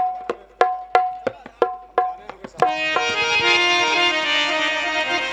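Folk music interlude: a hand drum plays a steady beat of ringing pitched strokes, about three a second. Near the middle, a harmonium comes in with a held, chord-like melody.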